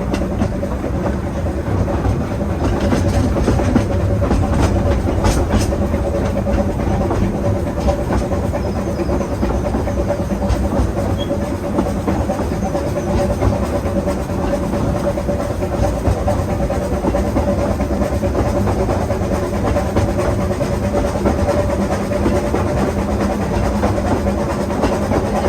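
Narrow-gauge steam train hauled by a Hunslet quarry tank locomotive running steadily along the line: a continuous rumble of wheels on rail, with a run of sharp clicks from the track a few seconds in.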